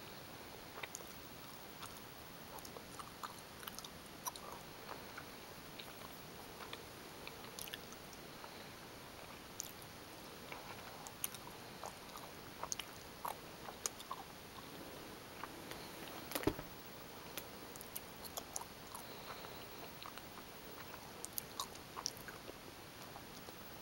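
Gummy bears being chewed close to the microphone: many small, irregular chewing clicks over a faint steady hiss, with one louder click about two-thirds of the way through.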